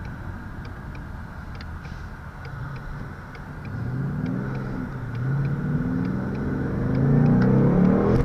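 2019 Ford Mustang GT's 5.0-litre Coyote V8 under hard acceleration through its active exhaust: low and steady at first, then about three seconds in the revs climb, dip at the shifts and climb again, getting louder toward the end.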